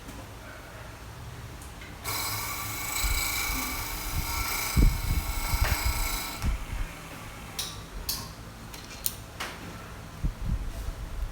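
Small nipper sharpening machine running for about four and a half seconds, a high whine with a hiss, then cutting off, followed by several sharp clicks and taps.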